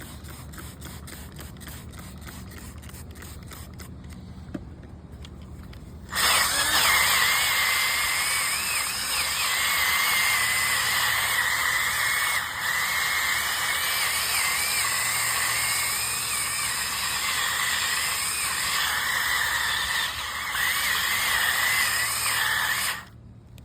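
Powered scrubbing brush, likely a drill brush, run against a fabric floor mat. It starts suddenly about six seconds in with a steady noise and a wavering squeal, and cuts off shortly before the end. Before that come faint, quick scrubbing strokes.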